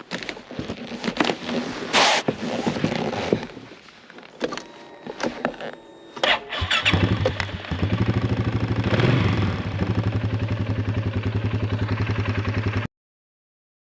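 Knocks and clatter, then about six seconds in a small engine starts and settles into steady running, before the sound cuts off abruptly.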